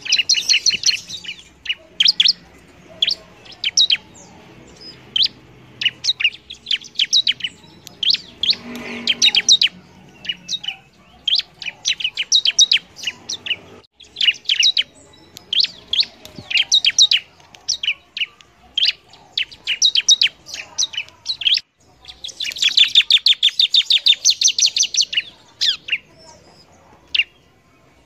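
Bar-winged prinia (ciblek) in full song: repeated quick series of sharp, high chirps, with a faster, denser chattering run a few seconds before the end.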